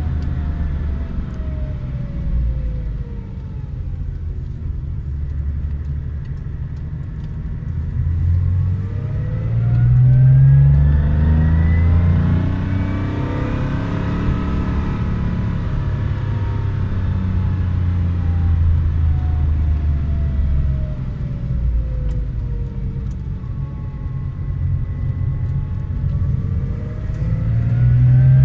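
Car engine pulling the car along, heard from inside the car over a steady low road rumble. Its pitch climbs under acceleration about nine seconds in, sinks slowly as it eases off, then climbs again near the end.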